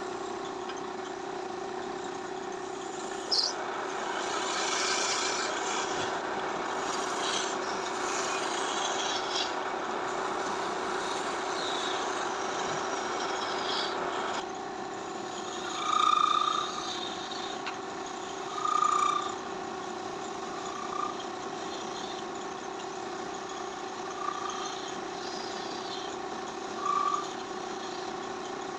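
A motor running with a steady hum. A rougher rasping noise lies over it for the first half and stops abruptly about halfway through. After that come several short high-pitched tones a few seconds apart.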